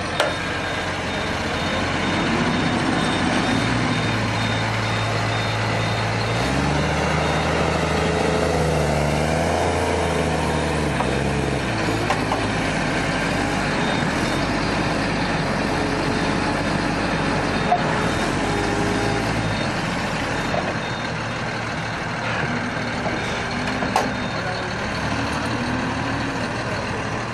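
Tractor engine running under load and revving, its note climbing and falling in steps, loudest from about six to twelve seconds in, as the tractor is stuck in the field.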